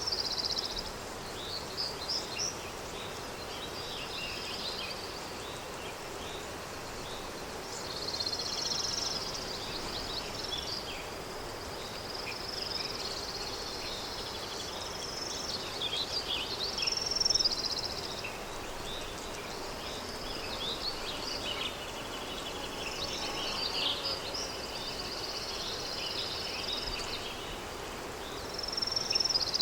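Countryside daytime ambience: small birds chirping and singing in frequent short phrases over a steady soft wash of wind.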